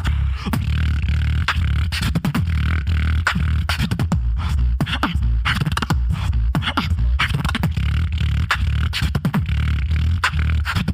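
Solo beatboxer performing into a microphone through a PA: rapid vocal percussion clicks and snares over a continuous deep bass line.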